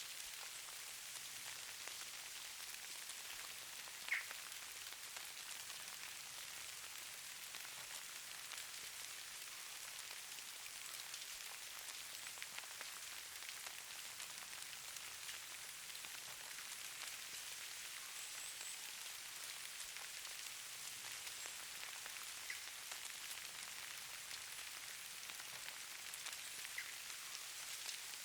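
Falling snow pattering steadily: a dense hiss of fine ticks, with one sharper click about four seconds in.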